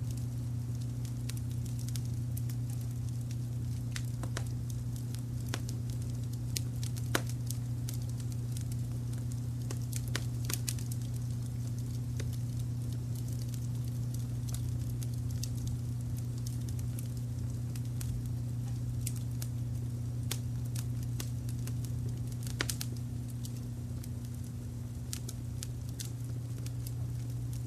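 Wood fire crackling, with irregular sharp pops scattered throughout and a few louder ones, over a steady low rumble of brown noise.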